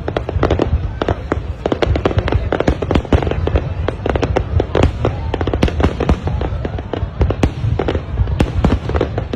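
High-altitude aerial fireworks going off in a rapid, continuous barrage: several sharp bangs a second over a steady low rumble of echoing explosions.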